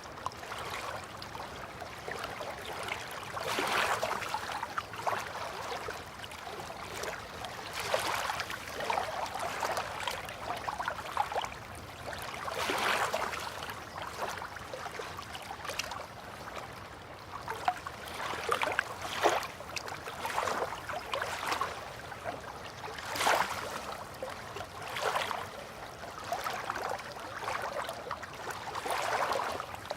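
River water lapping in small waves against a bank or moored boats, a soft wash swelling and falling every couple of seconds.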